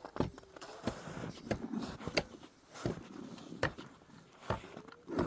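A series of sharp, short knocks, about one every half second to a second at an uneven pace, over a faint background.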